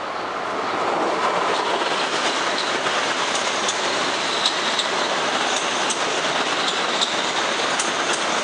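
Metro-North M8 electric train cars running past the platform: a loud, steady rush of wheel-on-rail noise that builds over the first second as the train arrives, with scattered sharp clicks from the wheels.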